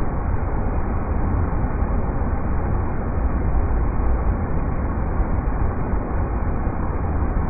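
River rapids: a steady, even rush of water with a strong low rumble and no breaks or changes.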